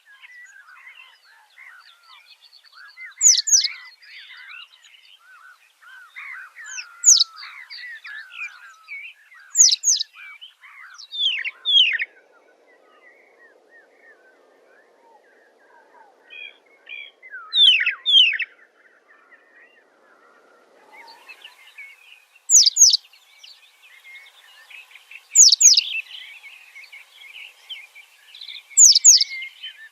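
Birds chirping and chattering, with a loud, sharp two-note call repeated about every three seconds and a quieter spell in the middle.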